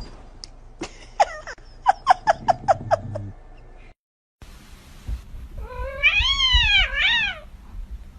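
Cat meowing: a series of short, quick mews, then after a brief gap a long meow that rises and falls in pitch, followed by a shorter one.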